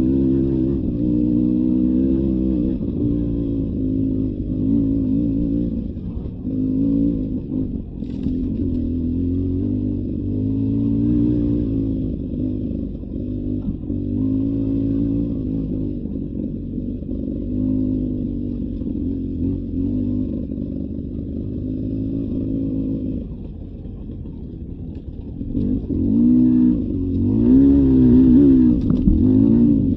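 Beta 300 RR two-stroke dirt bike engine under way, its revs rising and falling again and again with the throttle. It drops back briefly about three quarters of the way through, then revs harder near the end.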